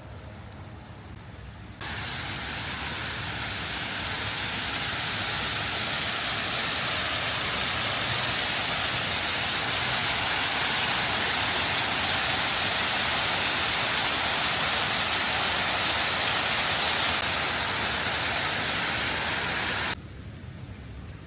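Steady, loud rushing hiss with no pitch to it, starting abruptly about two seconds in and cutting off suddenly near the end.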